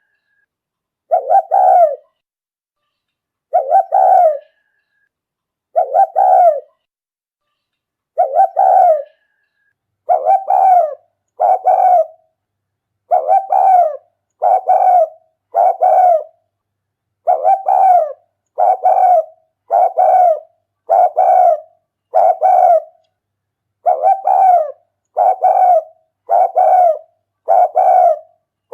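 Spotted dove cooing as a lure call. Short phrases repeat with gaps of silence, at first about every two seconds, then about once a second from around ten seconds in.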